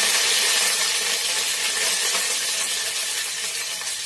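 Washed curry leaves sizzling in hot oil in a stainless steel kadai, a loud, steady hiss as the water on the leaves spatters off, slowly dying down.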